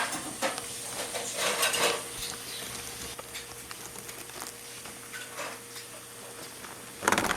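Irregular scratchy rustling and tapping as a lovebird pecks and scuffles at a rubber balloon, with a louder burst of scuffling near the end. A faint steady electrical hum lies underneath.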